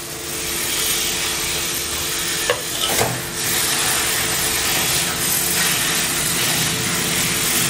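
Chicken pieces sizzling in hot oil and masala in a metal kadai, a steady frying hiss, while a steel spatula stirs and scrapes against the pan. There are two short knocks about two and a half and three seconds in.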